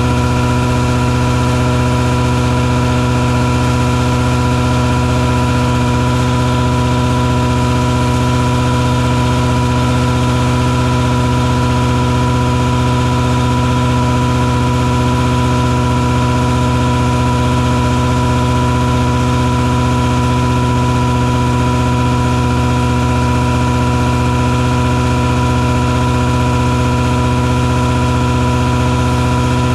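Mosquito-fogging truck's engine and fogger running at a steady, unchanging pitch, a continuous mechanical drone with a clear hum.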